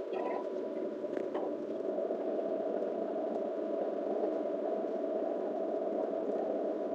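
Metro train carriage running, heard from inside: a steady rumbling noise with a faint steady whine. A few small clicks come in the first second or so.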